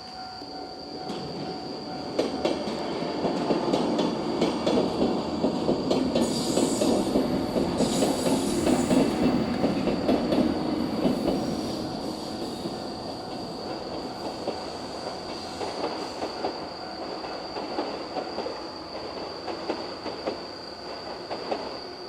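Four-car 103 series electric multiple unit passing a level crossing, its wheels clattering over the rail joints. It is loudest in the first half, with two brief high-pitched squeals, then fades away. A steady high-pitched tone sounds throughout.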